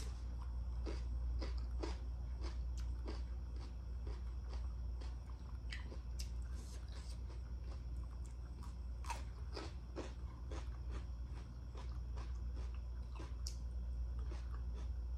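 Close-up eating sounds: biting and chewing, with irregular crisp crunches and mouth clicks, over a steady low hum.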